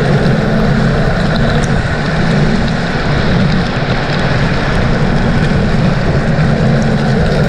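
A motor vehicle's engine running steadily and loud, heard close up with a rough low rumble and a wash of noise over it.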